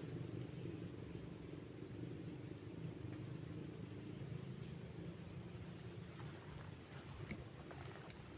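Insects chirping: a very high, pulsing buzz that repeats roughly every half second and stops about six seconds in, over a faster, lower chirp that keeps going.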